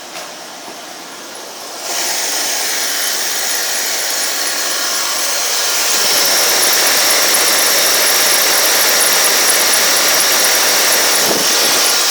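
1989 Cadillac Eldorado's 4.5-litre V8 idling, turning suddenly louder about two seconds in. A steady high belt squeal joins about six seconds in.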